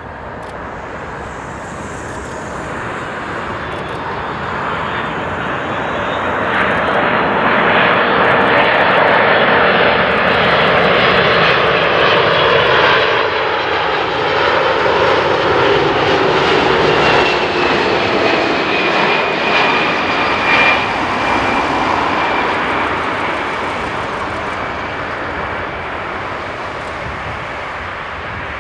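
Four-engined Boeing 747-400 jet passing low overhead on its landing approach. Its engine noise builds to a peak about a third of the way in, holds, then fades, with the engine whine falling in pitch as it goes by.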